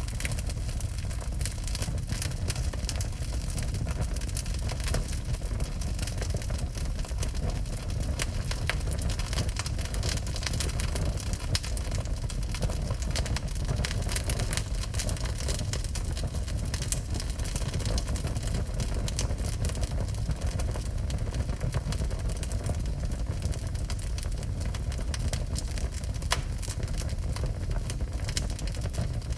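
Wood fire burning in a fireplace: a steady low roar of flames with frequent sharp crackles and pops of burning wood.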